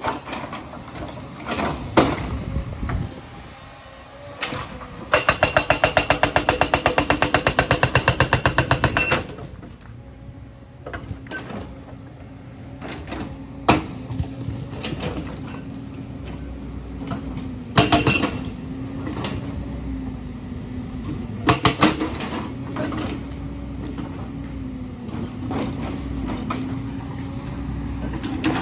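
Hyundai excavator at work: its engine runs with a steady, wavering hum, broken by several sharp metal clanks and knocks. About five seconds in comes a burst of rapid, even clattering that lasts about four seconds.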